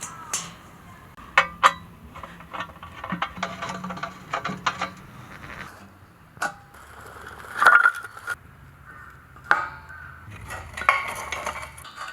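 Camp cookware and utensils being handled: irregular knocks and clinks, a few of them sharp and briefly ringing.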